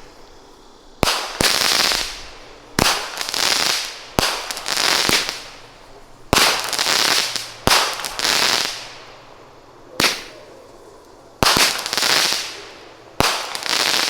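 Consumer firework cake firing its shots: eight sharp bangs spaced about one and a half to two seconds apart, each followed by roughly a second of hissing as the effect burns out.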